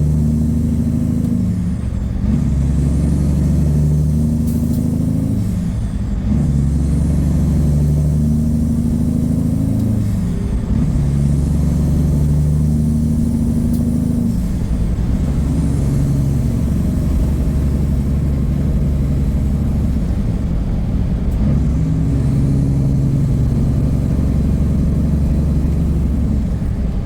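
Peterbilt semi truck's Cummins diesel engine pulling under load, its revs climbing and then dropping several times as it shifts up through the gears.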